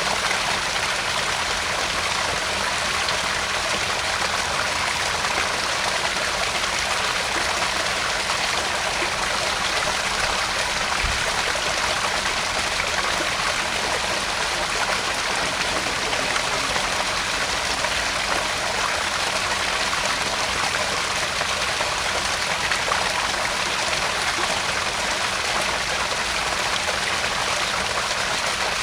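Small garden pond waterfall splashing and trickling steadily into the pond.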